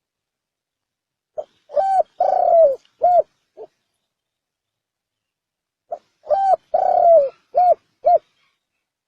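Spotted dove cooing with a 'chuông đồng' (bronze-bell) voice, the call used to lure wild doves: two phrases about four and a half seconds apart, each a few short coos around one longer coo that falls in pitch.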